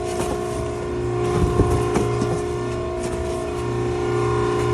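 Maren baler's hydraulic power unit running with a steady hum. A few knocks and clicks come about a second and a half in.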